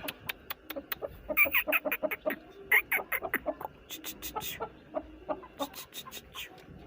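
Aseel chickens clucking in many short, scattered calls.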